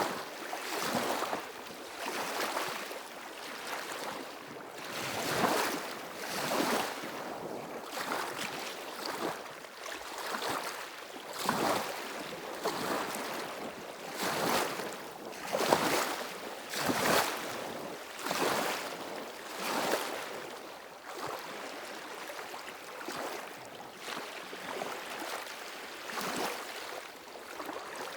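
Waves washing over shore stones, a surge of water every second or two.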